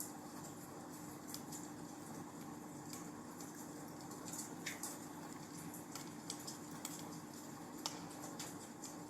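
Wood fire burning in a fireplace, crackling: a faint steady rush with irregular sharp pops and snaps, and a short falling whistle about halfway through.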